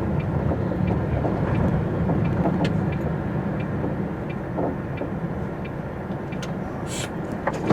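MAN TGX articulated lorry's diesel engine and road noise heard from inside the cab while driving: a steady low drone, with a few faint clicks and knocks from the cab.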